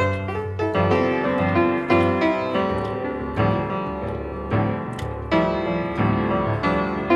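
Background piano music, notes struck in a steady rhythm with chords ringing under them.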